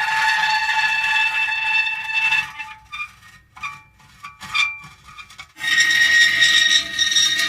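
Metal creaking: a long, drawn-out squealing creak, then several short broken creaks from about three to five seconds in, and another long creak starting near the end.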